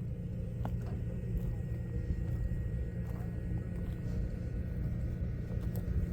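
John Deere combine's diesel engine running steadily, a low rumble with an even hum.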